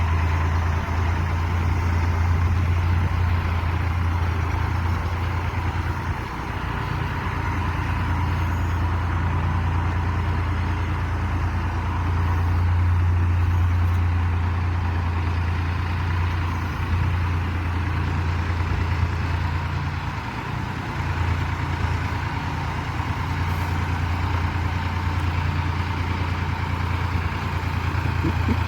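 Tractor engine running steadily with a deep, even hum, with only small rises and falls in loudness.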